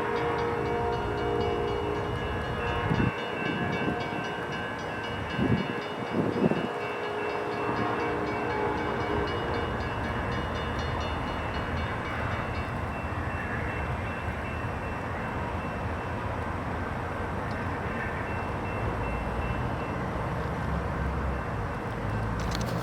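Amtrak Coast Starlight passenger train running, its horn sounding steadily for the first several seconds over the rumble of the train, with a few loud knocks near the start; after that only the steady rumble of the train.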